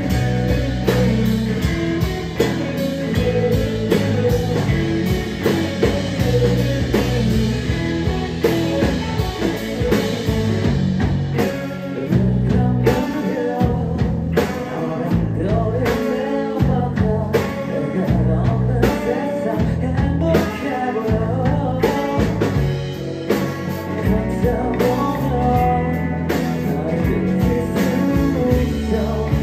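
Rock band music, with guitar and a steady beat.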